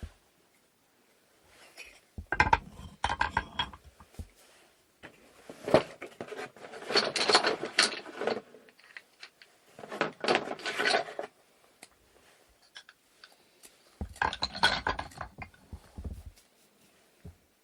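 Wooden inkle loom parts clattering and rubbing as they are handled and fitted together, in four bursts of knocks and scraping with short pauses between.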